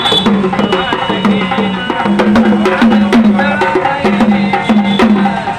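Gondhal devotional folk music: fast, steady drumming, a low drum note repeating about two to three times a second under sharp clacking percussion strokes.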